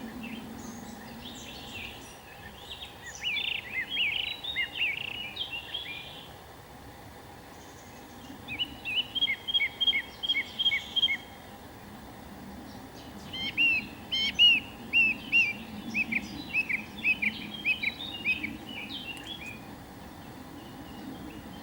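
Bird song: three bouts of quick, repeated high chirps, the second a run of evenly spaced notes and the third the loudest and longest, with quieter gaps between.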